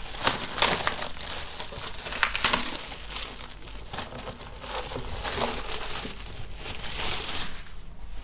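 Packaging wrapper crinkling and rustling in irregular crackles as it is handled and pulled off, easing off near the end.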